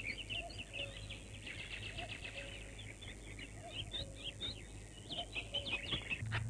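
Birds chirping: many short, quick high calls overlapping, over a low steady hum.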